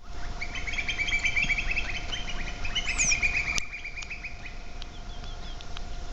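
A flock of small birds chirping together in a rapid, dense chatter that drops away about four seconds in.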